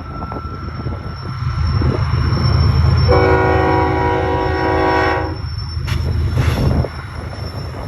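Diesel freight locomotives rumbling past close by, with one multi-note horn blast of about two seconds starting a little after three seconds in. The deep engine rumble drops away suddenly near the end.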